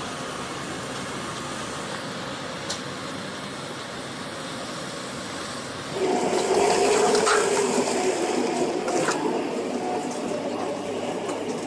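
Heavy machinery running with a steady rough noise; about six seconds in it gets suddenly louder, with a rushing sound and a steady low whine.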